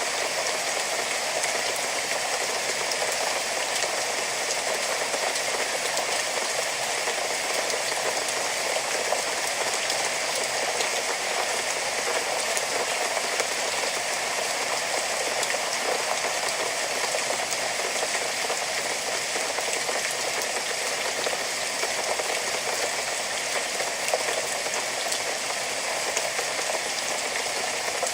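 Steady rain falling, a dense even hiss of drops with fine patter throughout.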